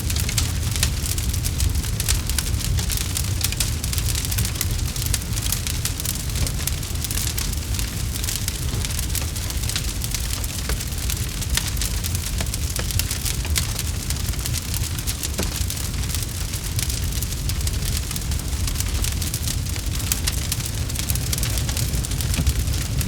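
Campfire crackling: a dense, steady patter of small pops and snaps from burning wood over a low, constant rumble of the flames.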